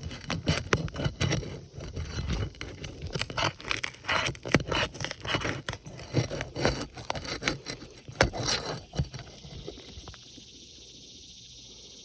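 Asphalt shingles being worked by hand on a roof: irregular scraping and crackling with sharp knocks and clicks. About ten seconds in the work stops, leaving a steady high hiss.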